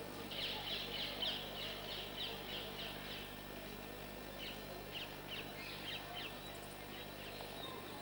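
Small birds chirping: quick runs of short, high notes, one burst in the first three seconds and another about halfway, over a steady low hum.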